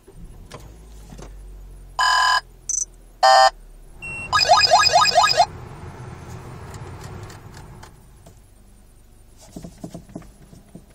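Peugeot 3008 being started: the dashboard gives several electronic warning beeps, then a fast run of chimes about four seconds in as the engine starts. The engine then runs at idle, quieter towards the end.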